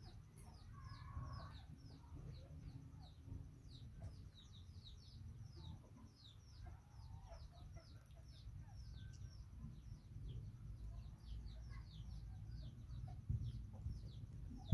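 Birds chirping: a steady run of short, high peeps, each falling in pitch, several a second, over a low rumble.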